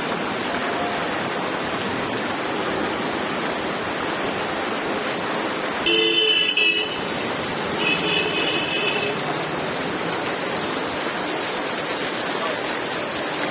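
Heavy rain pouring steadily in a city street, with a vehicle horn honking twice, the first honk about a second long and louder, the second a little longer and fainter.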